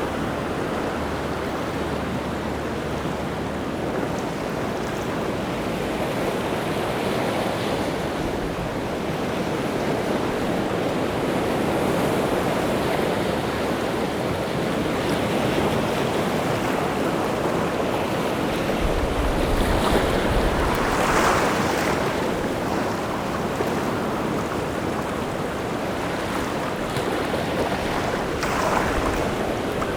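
Rough sea surf breaking on a rocky shore in a steady wash, with a louder wave crashing about two-thirds of the way through and another near the end.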